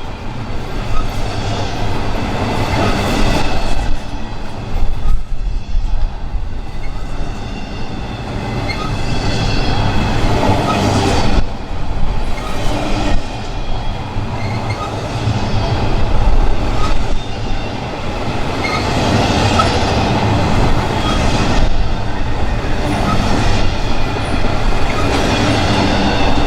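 Train rolling past on the rails, loud and continuous, with wheels clicking over the track.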